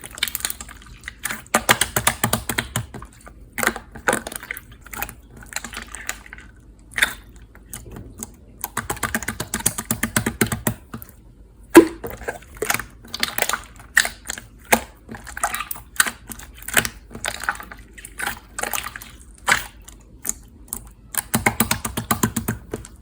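Clear slime being squeezed, poked and folded by hand, giving irregular runs of sticky clicks and crackling pops with short pauses between them.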